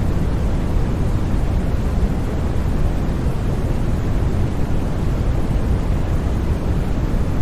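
Steady, unbroken white noise from a sleep sound track: an even, deep rushing hiss, weighted toward the low end, with no changes or sudden sounds.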